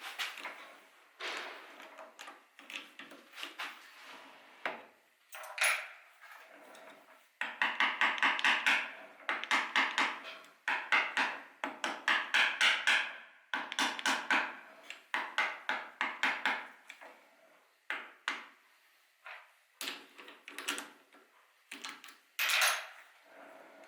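Hand-tool work on a portafilter or its handle: runs of rapid, short strokes, fastest and loudest in the middle stretch, with pauses between.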